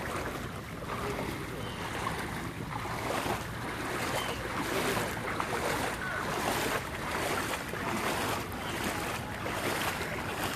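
Several people wading through floodwater on foot. Their legs push through the water in a steady rhythm of swishing and sloshing, a surge with each stride.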